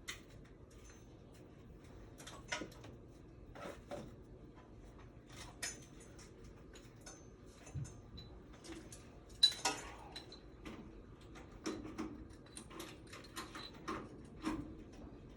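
Scattered light metallic clinks, taps and knocks of tools and parts being handled during furnace installation work, the loudest knock about nine and a half seconds in.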